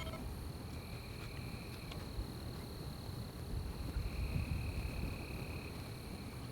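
Night forest ambience: insects trilling in a steady, continuous high pitch, while a second, lower insect trill comes in two bouts, one of about a second and one of about two seconds, all over a low rumble.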